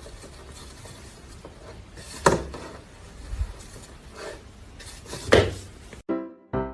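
Two sharp clinks or knocks, about three seconds apart, over a steady low background noise, with a few fainter taps between them.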